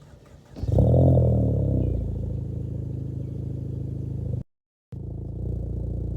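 A 2016 Ford Fusion with an aftermarket exhaust starting up: the engine catches about half a second in, flares loudly for about a second, then settles into a steady idle. The sound cuts out completely for half a second near two-thirds of the way through.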